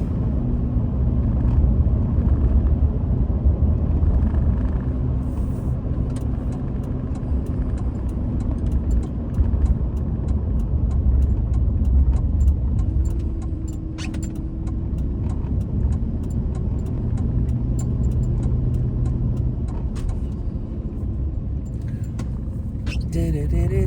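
Old pickup truck's engine running with a steady low rumble, heard from inside the cab while driving. The engine is sputtering, which the owner takes to mean the carburetor needs rebuilding.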